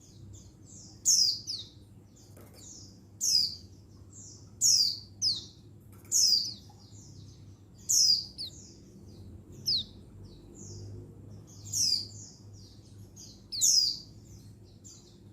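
Female buxtoni white-eye (pleci) giving its contact call to draw a male: short, high, downward-sweeping chirps about every one and a half seconds, with softer chirps between them.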